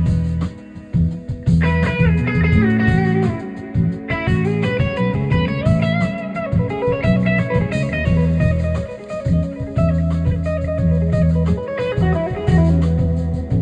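Live blues-rock band: an electric guitar plays running melodic lead lines over bass guitar and drum kit.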